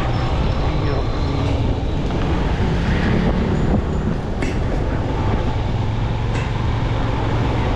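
Motorcycle running on the move, with wind rushing over the microphone and steady road noise.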